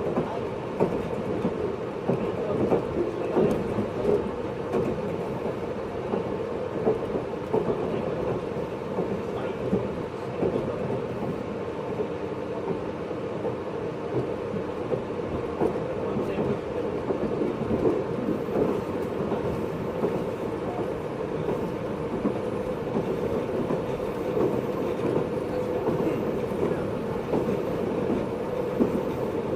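Interior running sound of a JR East 583 series electric train, heard from inside motor car MoHaNe 582-106 at speed: a steady rumble of wheels and motors with frequent knocks from the rails.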